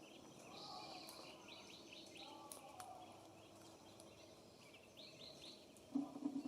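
Songbirds chirping and calling around a bird feeder: many quick, high chirps throughout, with a few lower warbled notes in the first seconds. Near the end comes a louder, low rattling buzz that lasts about half a second.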